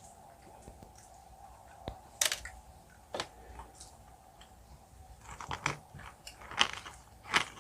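Close-miked eating of jelly candy: a few sharp crunching bites, then a quicker run of crunchy chewing over the last few seconds.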